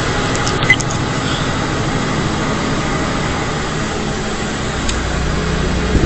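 Steady engine and road noise inside a semi-truck's cab, heard through a dashcam microphone, with a short click near the start.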